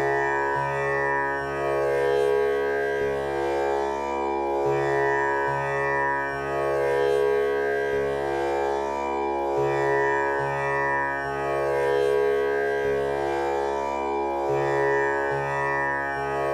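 Tanpura drone tuned to C# (male singing pitch): its strings plucked one after another in a slow, unbroken cycle that repeats about every five seconds, each note ringing on into the next so the sound never stops.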